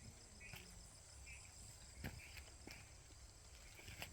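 Faint, steady, high-pitched insect drone with a few short chirps and soft clicks.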